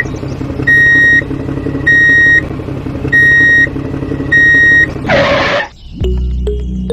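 Mini tractor's small motor running steadily under a high electronic beep, like a reversing alarm, that sounds about every 1.2 seconds, four times. About five seconds in comes a short hiss, then music starts.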